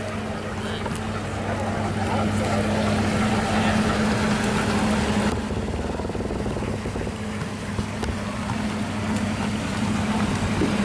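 A motor vessel's engine running steadily with a low hum, under the rush of wind and water. The rushing drops away suddenly about halfway through, leaving mostly the engine hum.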